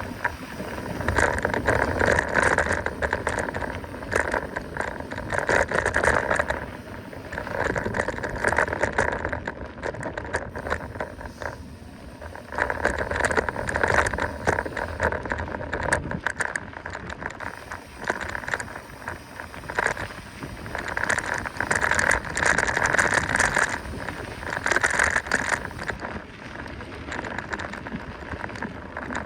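Mountain bike running fast down a rough dirt trail: the bike rattles and knocks over bumps and roots. The noise swells and falls every few seconds.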